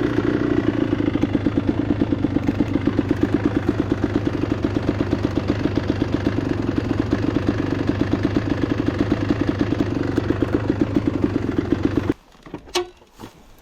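Enduro motorcycle engine idling with an even, pulsing beat, then cutting off suddenly about twelve seconds in as it is switched off, followed by a couple of faint clicks.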